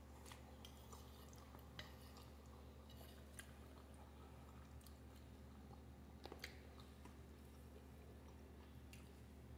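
Faint mouth sounds of a person chewing a mouthful of fusilli pasta in sauce, with a few soft clicks. Otherwise near silence over a low steady hum.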